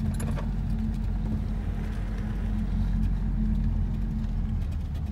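Hum from a failing front wheel bearing on a Mazdaspeed3, heard inside the cabin while driving, over road noise: a steady low drone. The bearing has worn out.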